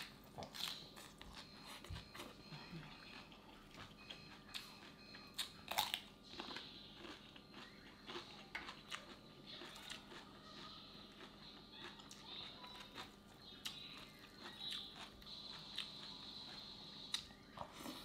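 A person chewing crisp fresh lettuce and papaya salad close to the microphone: steady crunching and wet mouth sounds made of many small sharp clicks and crackles.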